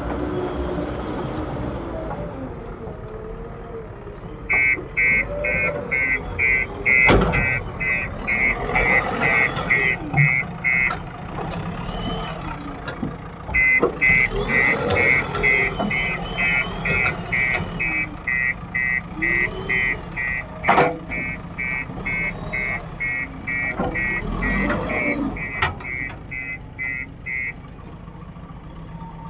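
A machine's reversing alarm beeping about twice a second, in two runs with a short break, over a running diesel engine. There are a few sharp clanks, the loudest about a third of the way in and again about two thirds in.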